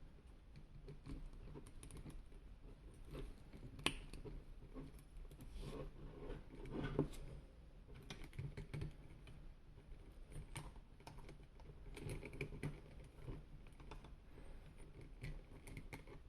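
Hands handling small plastic toy parts: irregular light clicks and rustles, with a sharp click about four seconds in and a brief louder bout of handling a few seconds later.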